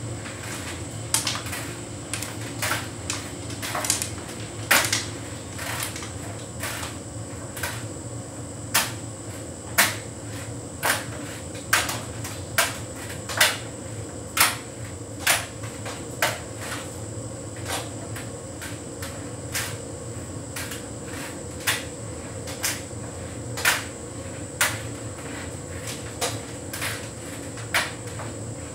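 Hotpoint heat pump tumble dryer running a synthetics cycle: a steady running hum under irregular sharp clicks and knocks, about one or two a second, as the load tumbles against the drum.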